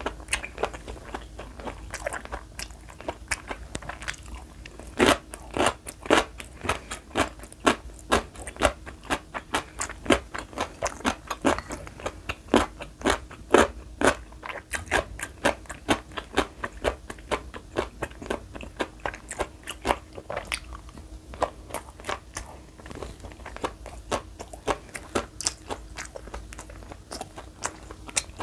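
Close-miked chewing of food, a dense run of short wet clicks and crunches. They are thickest and loudest from about five to sixteen seconds in, then sparser.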